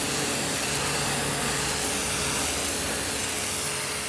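High-pressure washer spraying a steady hissing jet of water onto moss-covered stone, with the washer's motor and pump humming underneath.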